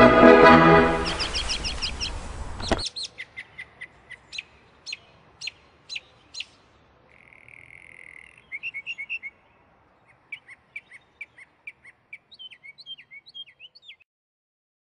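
Accordion music cuts off about three seconds in. A small songbird takes over: separate high chirps, a short buzzy trill, a quick run of notes, then scattered chirps that stop shortly before the end.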